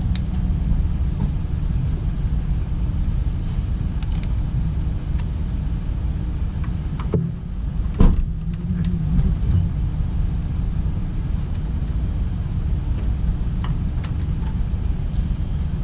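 Scag Liberty zero-turn mower's engine running steadily with a low rumble, with one sharp knock about halfway through.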